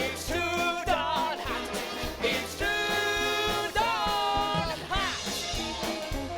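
Swing-jazz band music from a stage number, with long held, wavering notes over regular drum hits.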